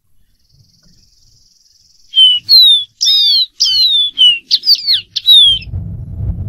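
Dark-throated seedeater singing: a faint thin high note, then a fast run of about a dozen loud, clear whistled notes, most slurring downward. A low rumble comes in near the end as the song stops.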